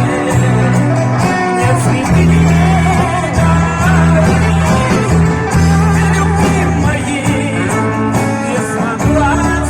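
Live band (vocal-instrumental ensemble) playing a song, with a bass guitar line stepping between notes under guitar and a wavering melody line.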